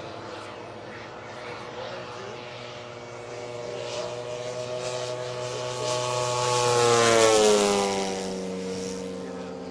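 3W-150 gasoline engine and 30x12 propeller of a giant scale model airplane in flight. It grows louder as the plane approaches, passes about 7 seconds in, and then drops in pitch as it flies away.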